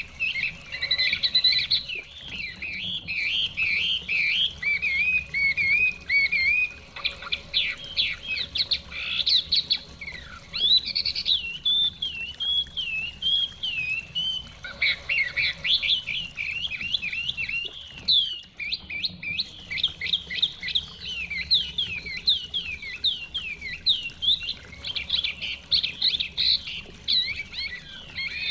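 Chinese hwamei (melodious laughingthrush) singing a long, unbroken run of quick, varied whistled phrases and trills.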